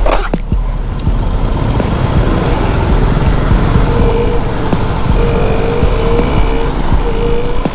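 Motorcycles running along together in a group ride: a steady, loud engine and road rumble with a wavering tone over it.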